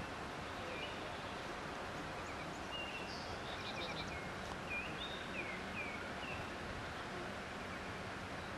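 Birds chirping and whistling in short, scattered calls over a steady background hiss.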